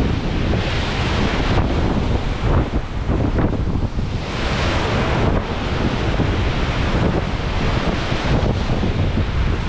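Storm wind buffeting the microphone over heavy sea, with big waves rushing and washing past the ship's side; a louder rush of water comes about halfway through.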